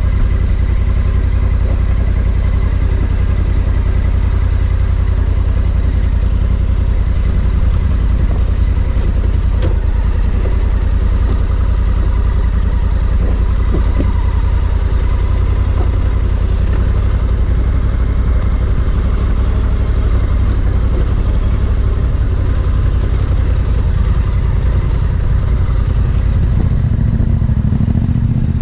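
Parallel-twin adventure motorcycle engine running steadily under way, with a strong, constant low rumble.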